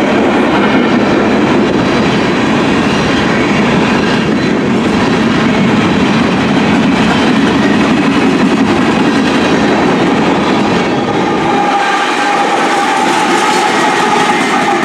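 Coal train rolling past close by, its freight cars' wheels clattering steadily over the rails. About eleven seconds in, a steady high tone joins as a Kansas City Southern diesel locomotive in the middle of the train draws alongside.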